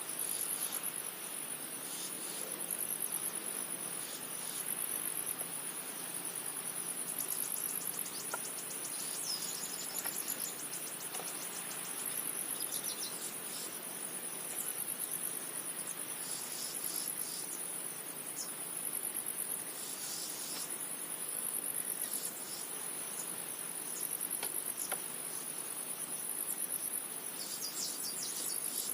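Chorus of insects giving a steady, high-pitched pulsing trill without a break, over a constant hiss, with a few faint clicks.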